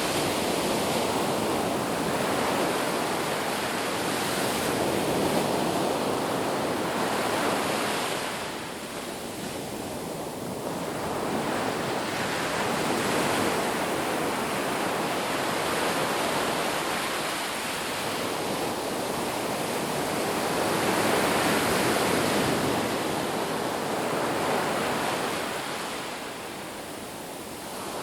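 Ocean surf breaking on a beach, a continuous wash of noise that swells and ebbs slowly as waves come in, with lulls about a third of the way in and near the end.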